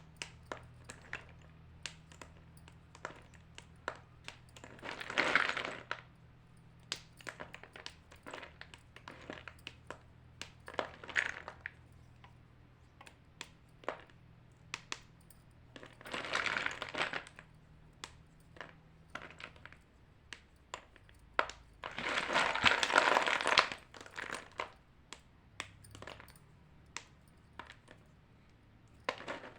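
White chalk being crunched: scattered sharp cracks and snaps, with several longer crunching runs, the longest lasting about two seconds past the middle.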